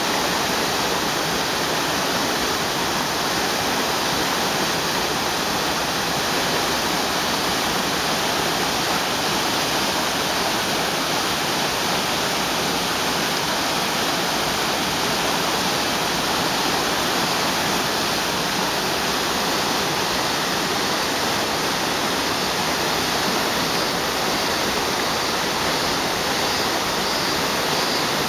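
Waterfall: water falling and splashing in a steady, unbroken rush that neither swells nor breaks.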